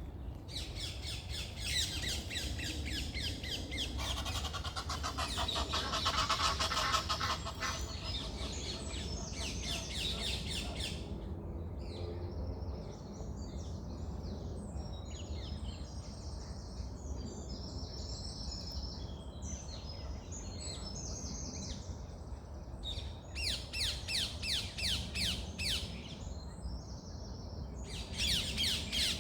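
Songbirds singing: dense, rapid chirping for about the first ten seconds, then sparser, varied song phrases, then renewed bursts of fast chirp series near the end. A steady low rumble runs underneath.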